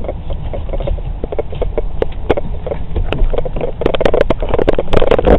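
Irregular knocks, bumps and rubbing as a person clambers up into a pickup truck's cab, the handheld camera knocking about.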